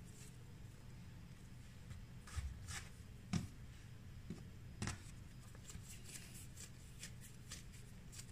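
Hands rolling small balls of brioche dough on a work surface: soft rubbing and scattered light taps, the sharpest a little past three seconds in and near five seconds, over a faint steady low hum.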